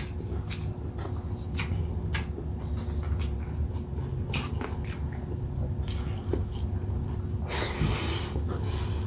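Close-miked chewing and wet mouth smacks from someone eating grilled chicken and rice, with short clicks scattered throughout and a longer, louder noisy sound a little before the end.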